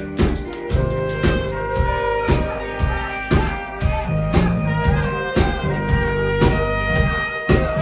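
Live pop-rock band playing: a steady drum-kit beat under held instrument tones and a heavy bass line.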